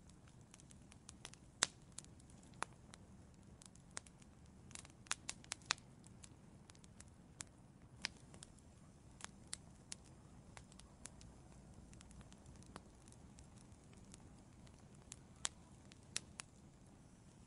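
Wood fire in an outdoor fireplace crackling: irregular sharp pops and snaps, clustered about five seconds in, over a faint low hiss of the flames.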